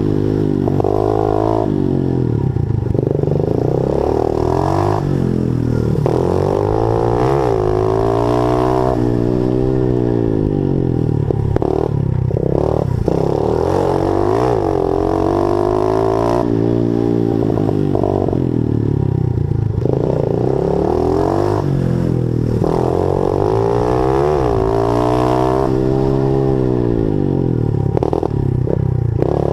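Honda 50cc pit bike engine being ridden hard, revving up and easing off over and over, its pitch rising and falling every two to four seconds as the throttle is worked.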